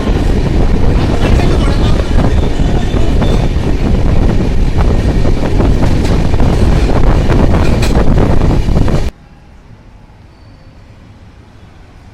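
Train running along the station platform: a loud rumble of wheels on rails with rapid clattering, cutting off abruptly about nine seconds in to faint background noise.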